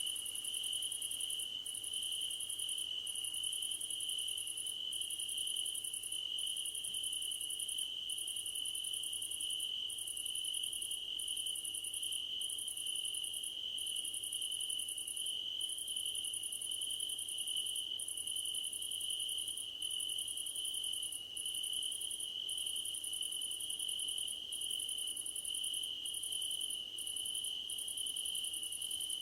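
Crickets singing in grass: one steady, unbroken high trill, with a still higher insect chorus over it in long pulses broken by brief gaps about every second.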